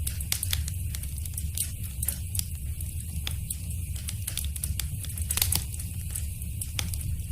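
Wood fire crackling in a fireplace: irregular sharp pops and snaps over a low steady rumble of the flames, with a louder cluster of pops about five and a half seconds in.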